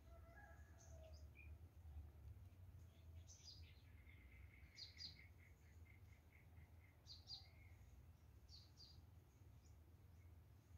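Faint small birds chirping: short high chirps, mostly in quick pairs, repeated every second or two, and a run of rapid even notes about four seconds in, over a low steady rumble.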